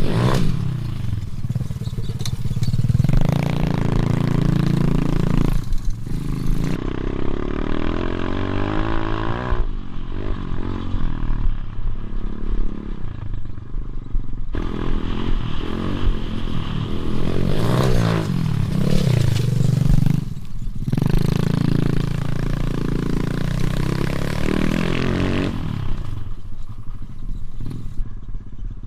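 Motorbike engines revving up and falling back again and again, the pitch rising and dropping with each burst of throttle, with abrupt changes in the sound a few times.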